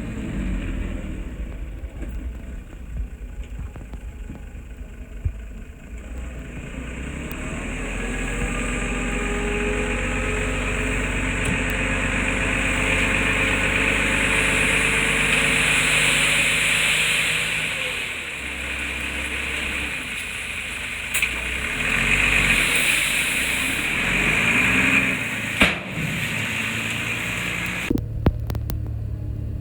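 Diesel engine of heavy earthmoving machinery running, swelling under load through the middle and easing off, with a few short metallic knocks later on.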